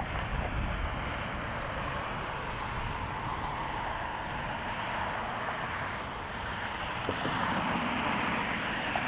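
Steady jet airliner engine noise, getting a little louder about seven seconds in, with wind rumbling on the microphone.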